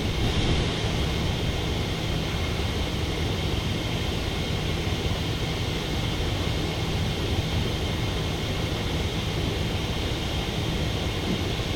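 A small motor running steadily, a constant hum with hiss, without change in level.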